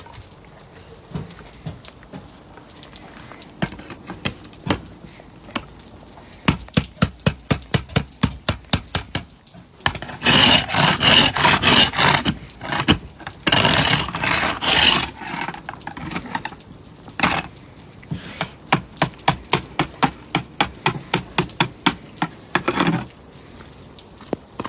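A pointed metal tool chipping thick glaze ice off a car from freezing rain: repeated sharp taps about three a second, with a louder stretch of fast scraping and cracking in the middle.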